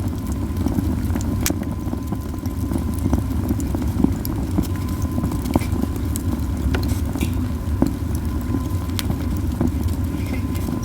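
Heap of pine cones burning in a campfire: a steady low roar of flames with frequent sharp, irregular crackles and pops.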